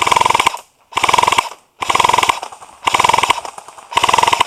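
Airsoft electric gun (AEG) firing short full-auto bursts: five in a row, about one a second, each a rapid string of shots with the gearbox whirring, laid down as covering fire.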